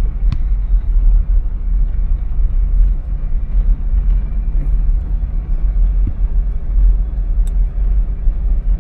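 Steady low rumble of a vehicle driving, heard from inside the cabin, with a faint click about a second in and again near the end.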